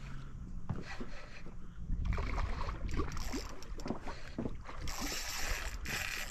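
Small boat on the water, with the hull and gear knocking and clicking and wind rumbling on the microphone; a loud hiss lasting about a second starts near the end.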